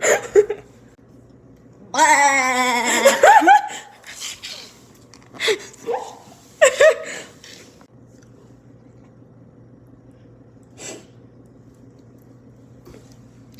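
A person's voice making a loud, wavering, drawn-out vocal noise about two seconds in, lasting about a second and a half, followed by a few short bursts of laughter.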